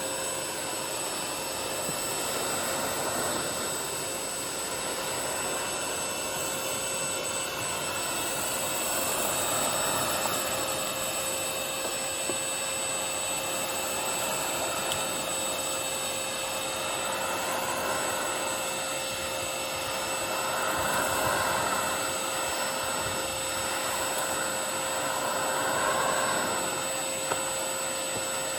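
Parkside PAWD 20-Li A1 20 V cordless wet/dry vacuum running steadily: a constant motor whine over a rush of air, the air noise swelling and easing a few times.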